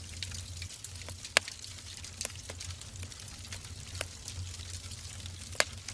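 Wood fire crackling in a fireplace: scattered small pops and snaps, with two sharper pops about a second and a half in and near the end, over a low steady rumble.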